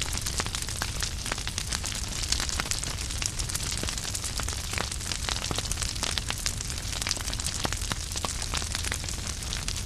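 Wood fire burning in a fireplace: logs crackling with frequent small, irregular pops and snaps over a steady hiss of flames and a low rumble.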